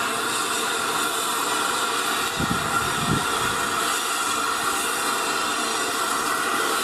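Steam hissing steadily from the Flying Scotsman steam locomotive as it stands. Two brief low knocks come near the middle.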